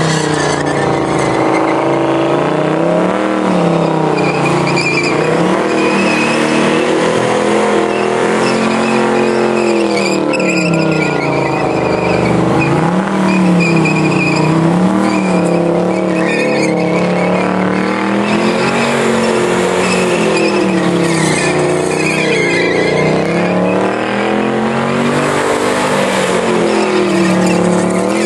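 A first-generation Chevrolet Camaro's engine held at high revs during a burnout, the revs swinging up and down over and over as the driver works the throttle, with the rear tyres spinning and squealing on the pad.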